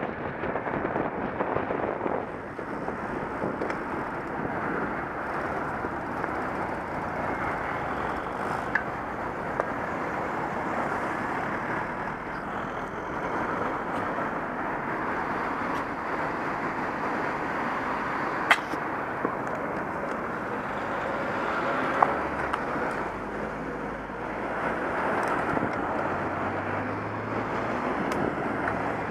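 Wind rushing over a Contour action camera's microphone on a moving bicycle, a steady noise, with two sharp clicks a few seconds apart past the middle.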